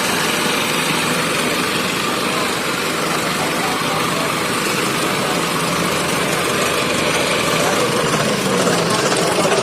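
Diesel tractor engines running steadily, with voices mixed in.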